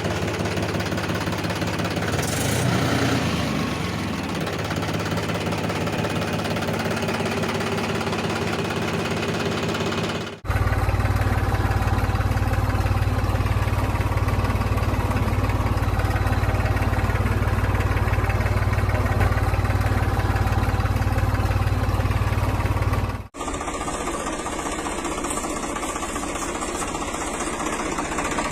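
An engine running steadily at idle, heard as three edited segments with abrupt cuts about ten seconds in and again near the end. The middle segment is louder and deeper.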